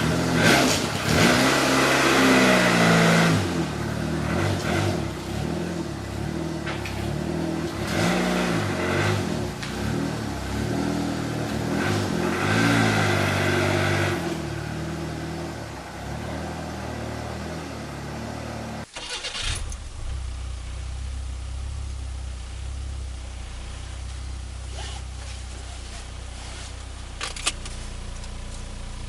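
Turbocharged Nissan Micra engine, still cold after its start-up, revved in several blips and then idling steadily. About two-thirds of the way through it turns duller and more muffled, and a single click comes near the end.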